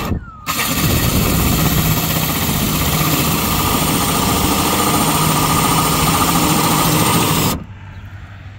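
Power drill spinning a 4-inch hole saw, cutting a hole through the pickup's inner tailgate panel. It starts about half a second in, runs at a steady pitch for about seven seconds, and stops suddenly once the hole is cut through.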